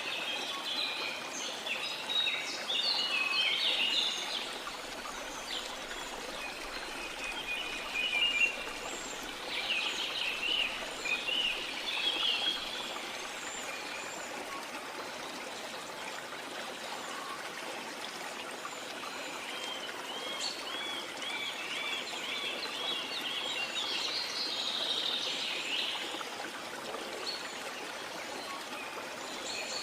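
Steady rush of a flowing stream, with birds calling and chirping over it in bursts. About twenty seconds in, one bird repeats a quick looping note several times.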